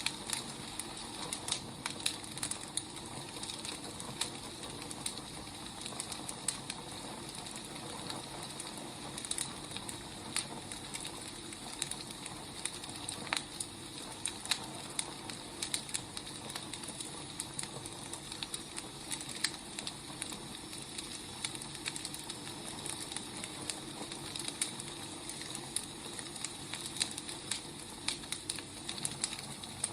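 Burning firewood crackling, with irregular sharp pops and snaps over a steady hiss.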